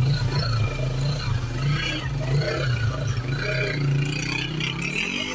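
Small single-cylinder motorcycle engine running in gear as the bike moves off, with a steady low note that shifts in pitch near the end.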